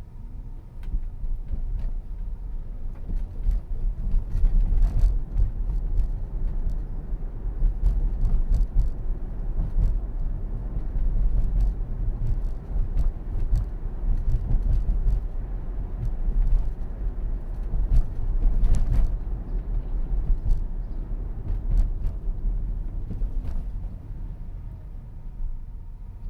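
Tyre and road rumble heard inside an electric Tesla's cabin while driving, louder from about a second in, with scattered light knocks from bumps in the road.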